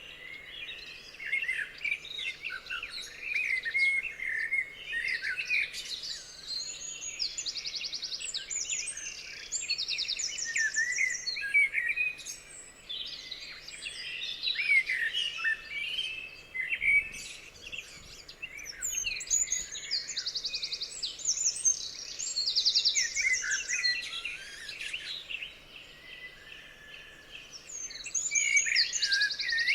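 Several songbirds singing at once, overlapping chirps and sweeping notes with repeated bursts of fast, high trills.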